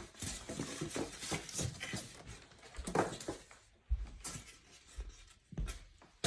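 Scattered handling noises: rustling with several light knocks and thumps as the portable washing machine is moved and turned.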